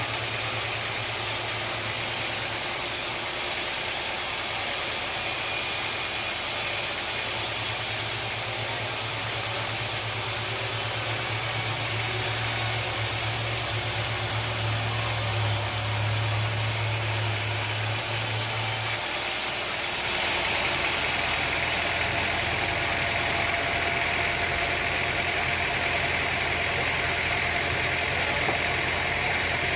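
Sawmill machinery running steadily with a low hum and a constant hiss. The sound changes abruptly about two-thirds of the way through: the hum drops away and a brighter, hissier sound takes over.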